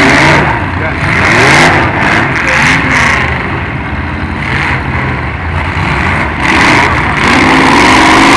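Demolition derby cars' engines revving, several at once, their pitches rising and falling over one another.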